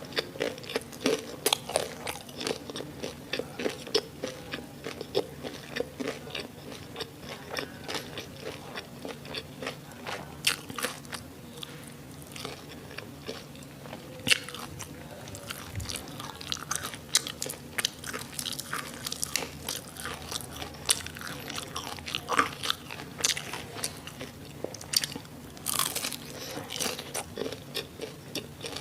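Close-miked mouth sounds of someone eating crispy fried sausages and onions: irregular crisp crunches and bites with wet chewing between them, a loud crunch near the end.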